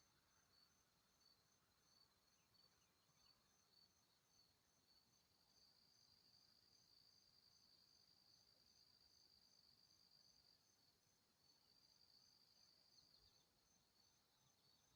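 Faint high-pitched insect chirping: short regular chirps about one and a half a second that run together into a steady trill from about five seconds in to ten seconds, and again briefly near the end.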